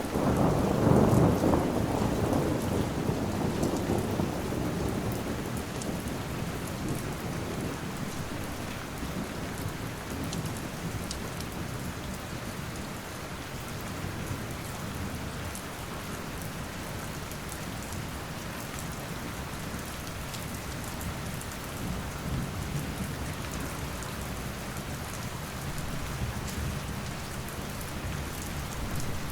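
Steady rain with a roll of thunder right at the start, loudest in the first two seconds and rumbling away over about six seconds.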